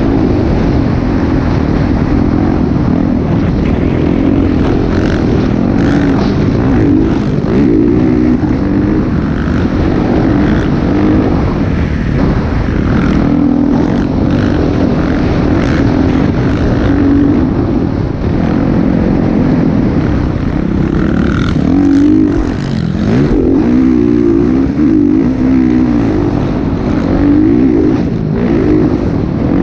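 Motocross bike engine running hard, its pitch rising and falling again and again with the throttle.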